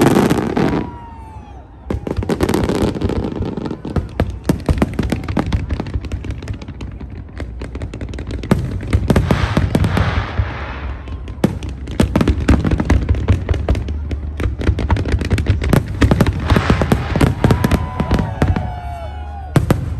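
Fireworks display: a dense run of cracks, crackles and bangs from bursting aerial shells, with a brief lull about a second in.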